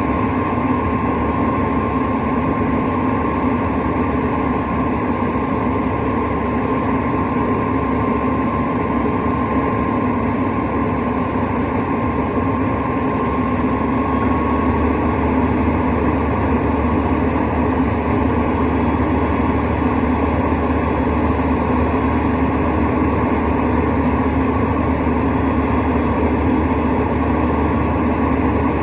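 Rooftop HVAC unit running with a steady mechanical drone. A thin whine over it fades out about halfway through.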